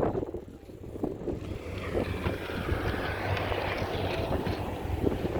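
Wind buffeting the microphone and a steady low road rumble while riding a bicycle, with a few faint knocks.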